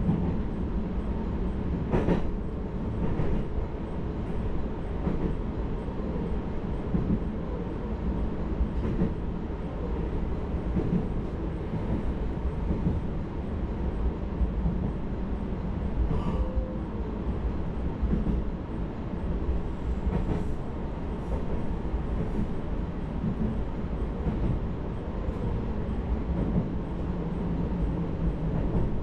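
Hakodate Liner electric train running, heard from inside the carriage: a steady low rolling rumble of wheels on rail, with a few sharp clicks from the wheels crossing rail joints.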